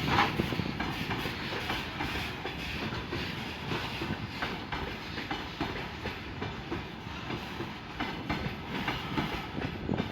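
A train passing close by, its wheels clattering over the rail joints in an uneven run of clicks over a steady rumble, with a sharp knock right at the start.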